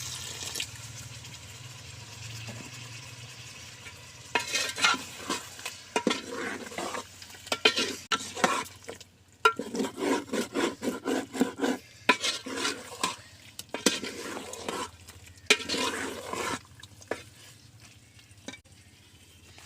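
Chicken frying in a cooking pot, sizzling quietly at first. After about four seconds it is stirred and scraped with a run of quick, irregular strokes that die away near the end.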